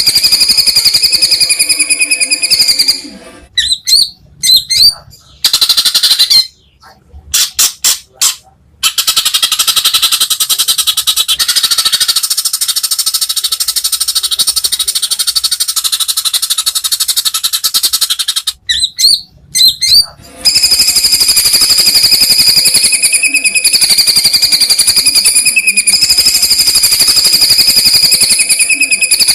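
White-rumped shama (murai batu) singing long, very fast machine-gun-like rattles, the 'trotol' song style. They are broken twice by a few short whistled notes, about a third of the way in and again past halfway.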